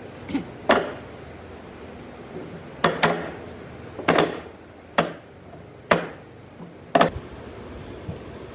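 A series of sharp strikes of a hand tool on wood, each ringing briefly: a pair near the start, then about one blow a second from three seconds in.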